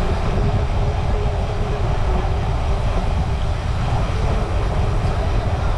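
Steady wind rumble buffeting the microphone of a camera riding on a moving bicycle, loud and even throughout.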